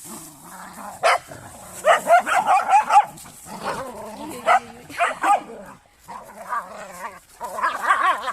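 A dog whining and yelping in a run of short, high, wavering calls, with a few sharper yelps among them.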